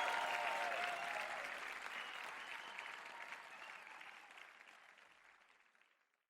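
Audience applause on a live music recording, fading out steadily to silence near the end.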